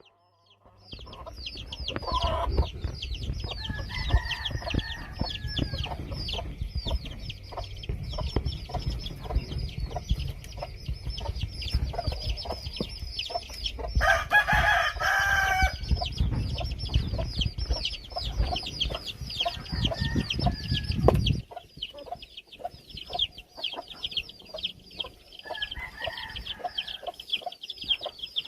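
Chickens clucking, with a rooster crowing about halfway through, over a dense low rumbling noise that cuts off suddenly about three-quarters of the way in.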